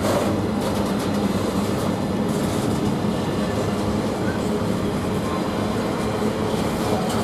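Freight train of empty container flat wagons rolling steadily past on the rails behind a Class 66 diesel locomotive, a continuous running noise with a low hum under it.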